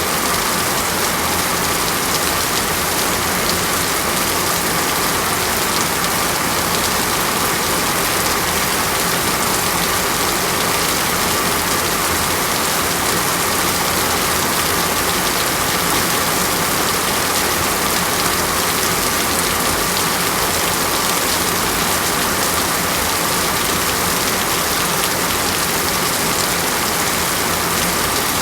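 Steady, heavy rain falling on a surface, an even hiss with no breaks or changes.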